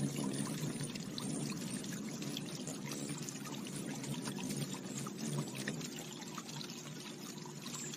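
Water pouring and splashing steadily, an unbroken rush.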